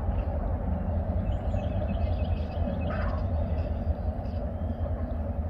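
Freight train rolling past: a steady, heavy low rumble of wheels and cars on the track.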